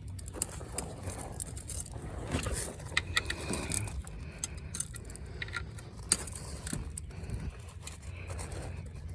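Metal wrench clinking and scraping on the oil drain plug as it is tightened, a run of irregular sharp metallic clicks over a low steady hum.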